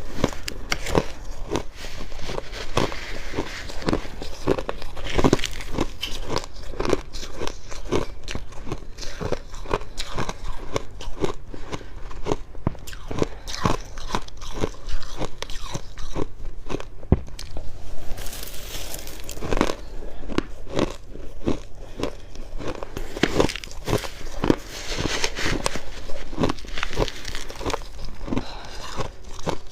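Close-miked crunching and chewing of fluffy freezer frost in the mouth: dense, irregular dry crunches that go on without pause.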